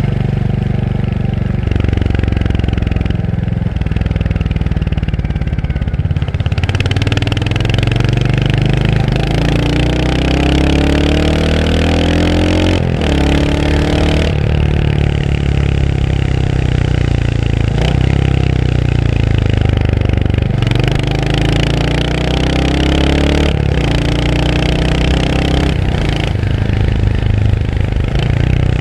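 Royal Enfield Hunter 350's single-cylinder engine under way: a steady low engine note for the first few seconds, then repeated rising runs in pitch as the bike accelerates, each cut off by a short dip at a gear change.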